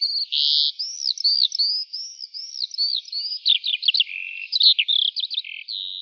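Bird chirping: a continuous run of quick, high whistled chirps and arching notes, with a few short buzzy notes mixed in.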